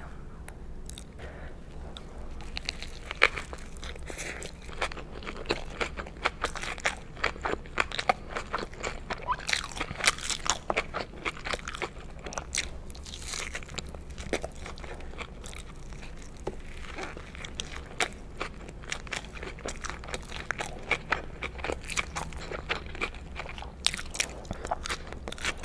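Close-miked chewing and biting of a McDonald's burger with lettuce: wet mouth sounds with a dense, irregular run of small crunches and crackles.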